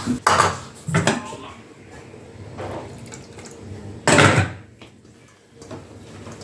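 Hands kneading wheat-flour dough in a bowl: a few short, irregular squishes and thumps, the loudest about four seconds in.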